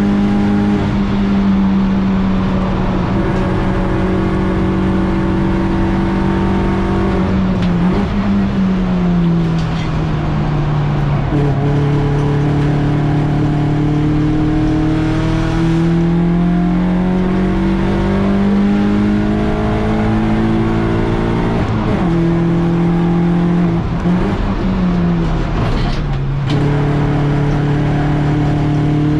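BMW 116i race car's four-cylinder engine running hard under load on track. The engine note holds high, drops several times at gear changes or braking, and climbs steadily in between as the car accelerates.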